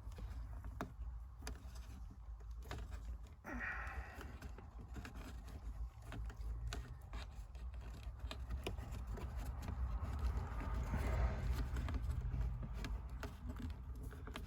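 Scattered small plastic clicks and rattles of hands twisting and working a stubborn wiring connector loose from a car's center console panel, over a low steady hum.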